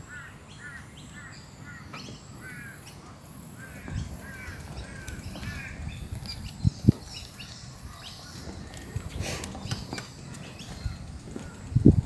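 Guinea fowl calling: a rapid run of short harsh notes, about three a second, thinning out after the first half. A couple of sharp low thumps come about seven seconds in and near the end.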